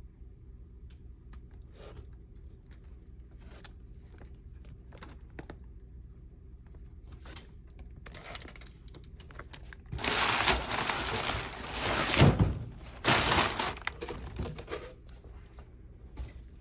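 Packaging being unwrapped by hand: scattered light clicks and taps, then about ten seconds in a loud stretch of crinkling and tearing that lasts about five seconds.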